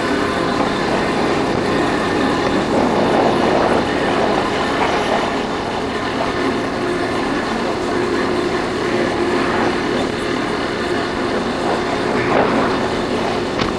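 Yamaha Factor 150's single-cylinder four-stroke engine running steadily while riding, mixed with wind noise on the microphone.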